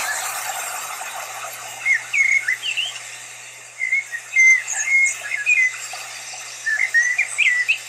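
Small birds chirping in short, scattered calls that glide up and down, with the noisy tail of a grenade explosion fading out at the start.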